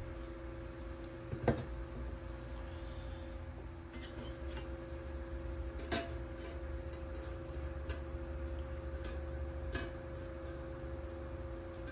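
A few sharp clinks and clicks of small hard parts being handled, three louder than the rest, over a steady low hum.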